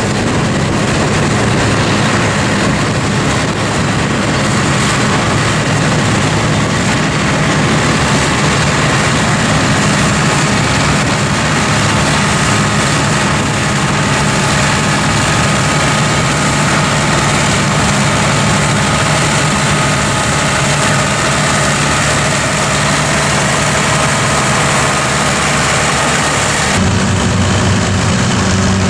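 Massey Ferguson tractor running steadily under load, driving a forage harvester that is cutting silage, with a dense mechanical roar over the engine note. The sound shifts suddenly near the end to a stronger low engine note.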